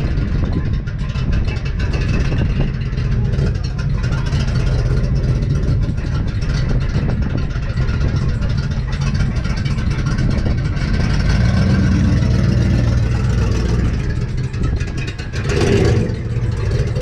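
Car engine running with a steady low rumble, and a brief louder burst about a second before the end.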